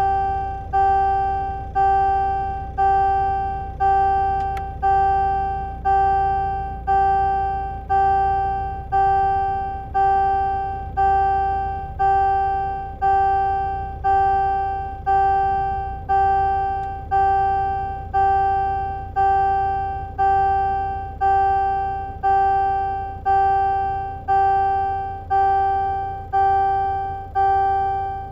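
An electronic warning chime sounds one identical note about once a second, each ding fading away before the next, over the low rumble of the Scania R450's idling engine.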